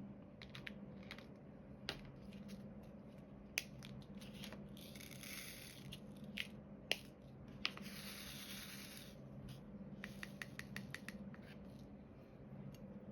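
Small clicks and taps of diamond-painting work: resin drills picked up and pressed onto the canvas with a drill pen. Two longer scratchy rattles come about five and eight seconds in, and a quick run of about ten small taps follows near ten seconds.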